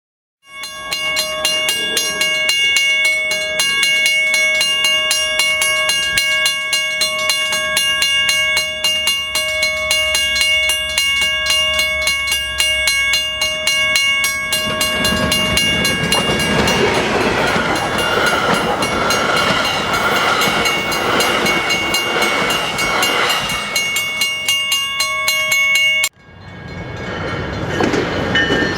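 Level-crossing warning bell ringing steadily and rapidly while a commuter train approaches and passes, the train's rumble and wheel noise loudest in the middle. The sound cuts off abruptly near the end, and another passing train fades in.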